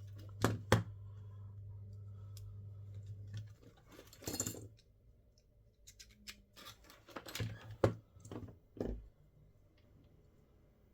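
Small sharp clicks and taps of tools and phone parts being handled on a workbench, with a rustle about four seconds in. A low steady hum stops about three and a half seconds in.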